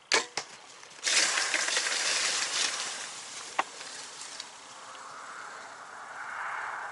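A bow shot: a sharp crack of the released string and a second smack just after, as the arrow strikes. About a second later comes a burst of crashing through dry leaves and brush, fading over a couple of seconds as the hit deer bolts.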